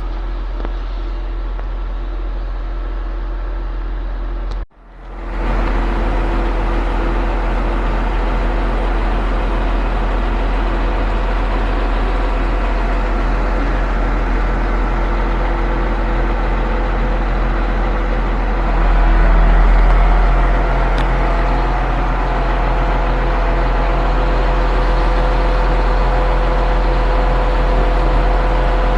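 Concrete pump truck's engine running steadily under load. The sound cuts out for a moment about five seconds in, and the low rumble swells briefly later on.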